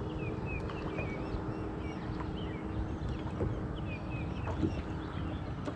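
Small birds chirping in short, quick notes again and again, over a steady low hum.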